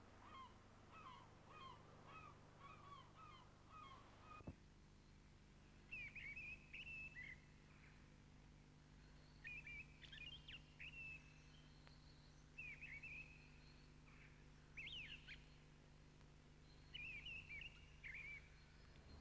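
Faint bird calls. For the first four seconds one bird calls over and over, about twice a second. After an abrupt change, short bursts of higher, chirpy birdsong come every couple of seconds.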